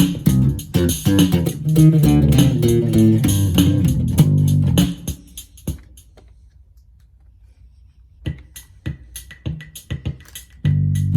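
Electric bass played through a Roland Micro Cube Bass RX amp in an improvised line over the amp's built-in rhythm box beat. The bass stops about five seconds in, leaving a quiet stretch and then only sharp drum-machine clicks, and comes back near the end.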